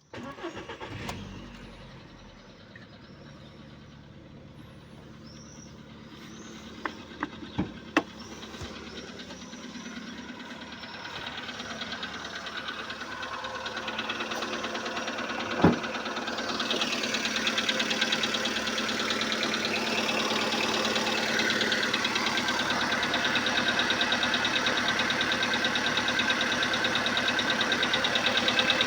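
Volkswagen Polo sedan's 1.6-litre 105 hp petrol engine cold-starting just after an engine flush and oil change, catching at once and then idling. It grows gradually louder, with a fast, even clatter in the later part, and there are a few sharp clicks about seven to eight seconds in and again near sixteen seconds. The owner asks whether the engine needs repair.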